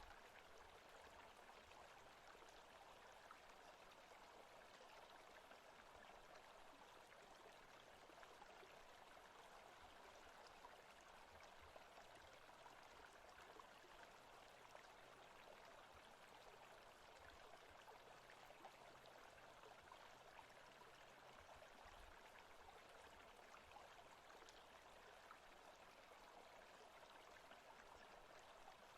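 Faint, steady rushing of running water, a stream-like ambience.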